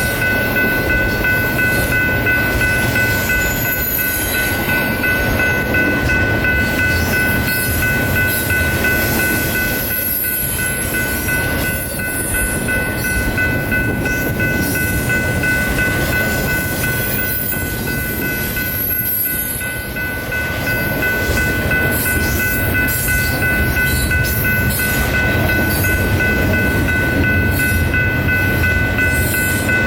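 A freight or passenger train rolling past close by: a steady rumble of the cars on the rails, with a constant high-pitched whine held over it.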